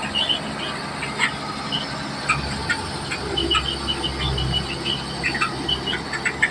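Komatsu D31P bulldozer's diesel engine running with a low rumble that swells and eases, under a scatter of short, sharp high-pitched squeaks.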